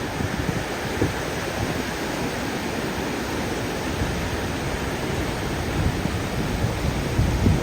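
Wind buffeting the microphone over a steady rush of open sea, gusting in the low end with no engine tone.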